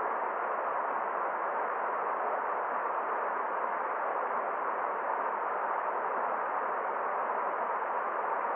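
Forest stream running: a steady, even rush of water with no distinct splashes or other events.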